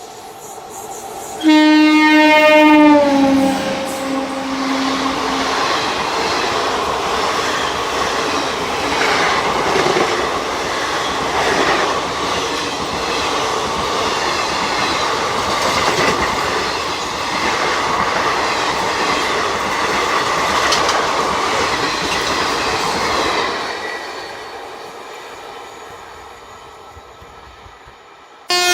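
An Indian Railways train passing at speed: the locomotive's horn sounds loudly and its pitch drops as it goes by, then the coaches rush past for about twenty seconds with rhythmic wheel clatter over the rail joints, fading as the train moves away. Another horn blast begins right at the end.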